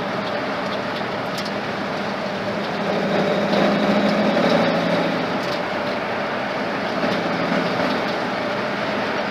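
Ford flathead engine running as the truck drives along the road, with a steady engine note and road noise; the engine gets louder for a couple of seconds about three seconds in, then settles back.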